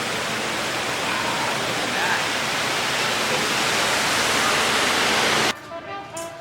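Steady rushing of falling water, cutting off suddenly about five and a half seconds in.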